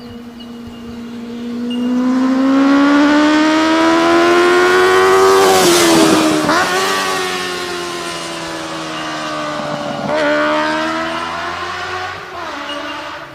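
Motorcycle engine and exhaust at speed. The note climbs in pitch for a few seconds, drops sharply about six seconds in, swells again about ten seconds in and fades near the end.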